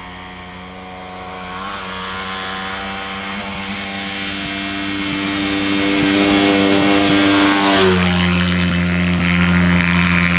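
Honda CRF80 dirt bike's single-cylinder four-stroke engine at a steady throttle, growing louder as it approaches, then dropping in pitch about eight seconds in as it passes by.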